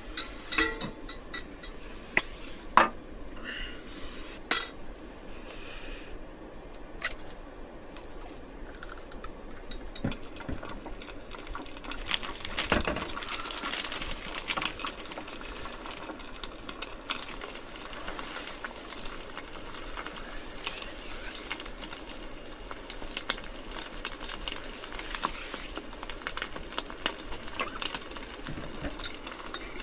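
Egg frying and sizzling in a stainless steel pan over a rocket stove, with a metal utensil clinking and scraping against the pan. Scattered sharp clicks come first, and the sizzle grows denser about halfway through; the stove runs too hot to turn down, enough to burn the egg.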